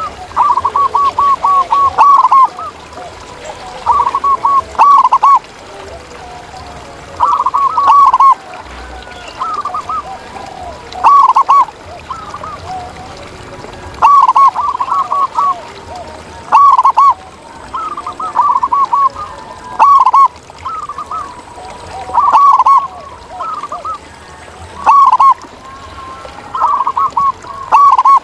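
Zebra doves cooing: quick runs of short staccato notes, a phrase every two to three seconds, with fainter overlapping coos underneath.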